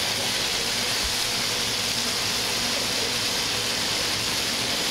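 Freshly added chopped broccoli rabe sizzling in a hot sauté pan of garlic, pancetta and anchovies: a steady frying hiss.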